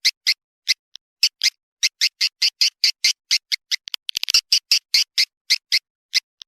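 Swiftlet lure call (suara panggil walet) played back to draw swiftlets into a nesting house: a fast series of short, high chirps, several a second. There is a brief pause near the start and a quick flurry of chirps about four seconds in.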